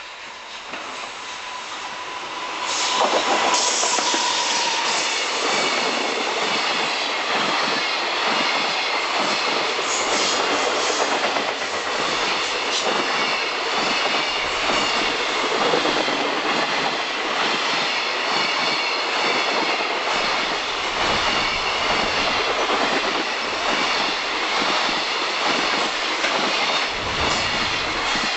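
JR Freight EF200 electric locomotive hauling a long container freight train past. A steady whine as the locomotive approaches, then, from about three seconds in, the wagons rolling by with a clickety-clack over the rail joints and wheel squeal, easing off as the last wagon passes near the end.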